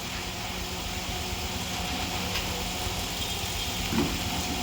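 Car engine idling steadily, with a short knock about four seconds in.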